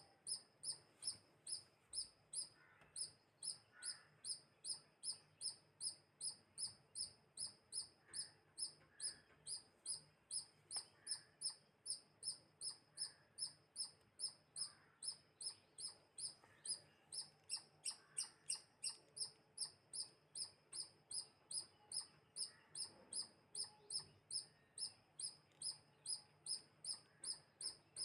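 A small animal's short, high chirp repeated steadily about twice a second, with no pause.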